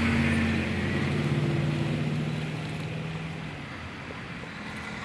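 A large vehicle engine running with a steady low hum that fades away over the first three or four seconds.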